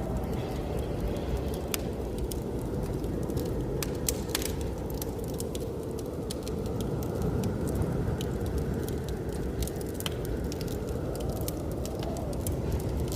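Wood fire crackling, with scattered sharp pops and snaps, over a steady low rumble of blizzard wind.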